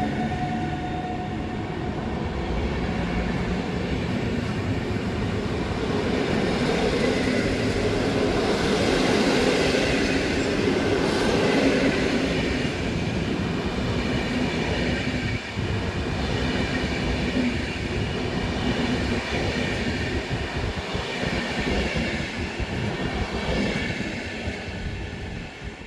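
Train passing along the platform: a steady, loud rumble of wheels and running gear that swells and then fades away near the end.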